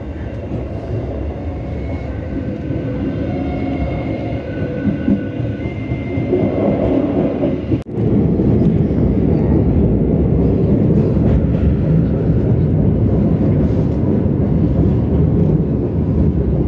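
Dhoho local passenger train running along the track, heard from inside its rear carriage: a steady rumble of wheels on rails. It cuts out for an instant about eight seconds in and is louder after that.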